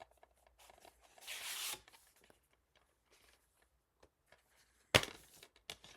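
Handling of a plastic DVD case: a short rasping slide about a second in, then a sharp plastic snap near the end as the case is opened, with a few small clicks.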